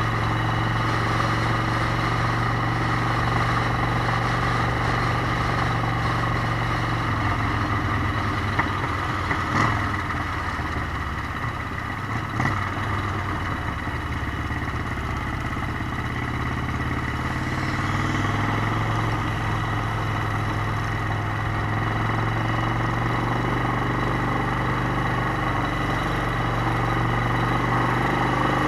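Motorcycle engine running steadily while riding. Its note eases off about a quarter of the way in and picks up again a little past halfway, with a few short knocks in between.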